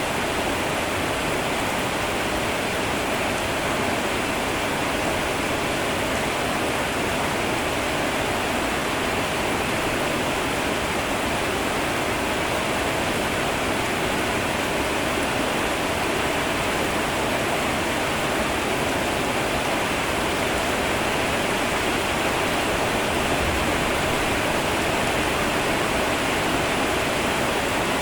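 Heavy rain falling steadily, an even, unbroken hiss with no separate drops or thunder.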